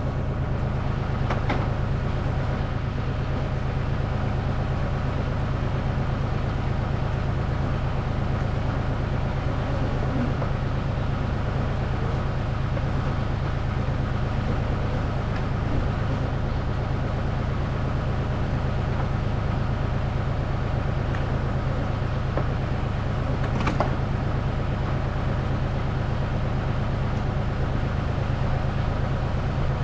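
A motor running with a steady, unchanging low drone.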